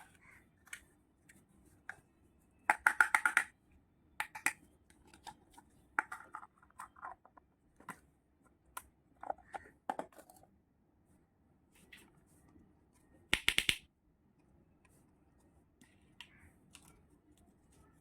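Small clicks and taps of miniature toy kitchen pieces being handled, with two quick rattling runs of clicks, about three seconds in and again near the end, the later one the loudest.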